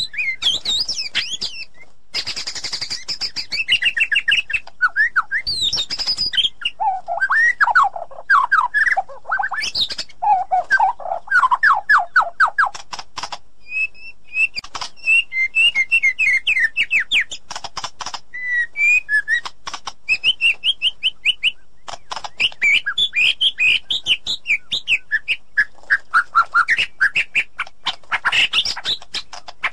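White-rumped shama singing: varied phrases of rapid repeated notes and trills, broken by short pauses.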